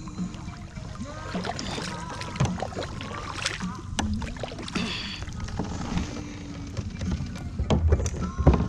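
Irregular knocks, clicks and rattles of gear being handled in a kayak, over a steady low rumble.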